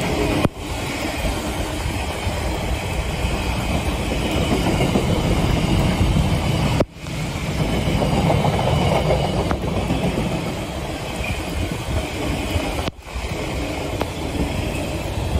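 Container wagons of a freight train rolling past at speed: a steady, dense noise of steel wheels on rail. The sound cuts out for an instant three times: about half a second in, about seven seconds in and about thirteen seconds in.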